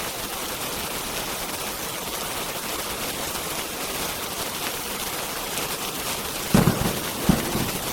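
Steady rain hiss. Near the end come a few sudden, loud low thumps or pops.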